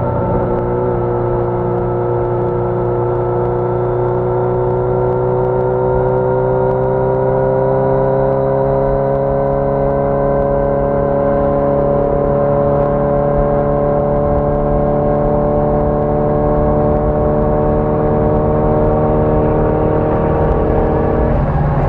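A 1981 Yamaha XJ650 Maxim's air-cooled inline-four engine pulls steadily while riding, its pitch rising slowly and evenly as it gathers speed in one gear. Near the end the note changes briefly, as at a gear change or throttle change.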